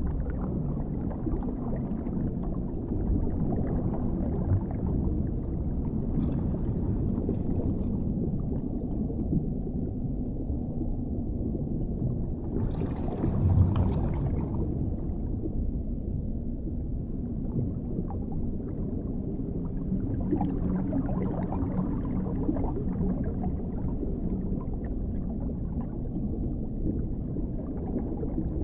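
Dark underwater ambience: a steady, muffled low rumble and gurgle, with a brief brighter, louder surge about halfway through.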